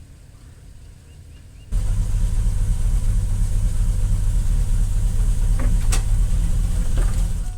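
Truck engine running with a steady low drone that comes in loud about two seconds in, after a quieter stretch, and stops abruptly at a cut near the end; a few faint ticks sound over it.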